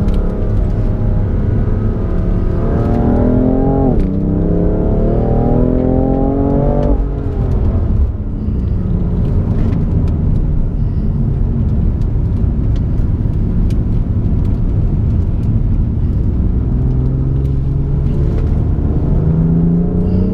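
BMW M4's twin-turbo straight-six engine accelerating hard with its pitch climbing, an upshift about four seconds in, and a second climb. It lifts off about seven seconds in to a steadier lower drone with road noise, then climbs again near the end.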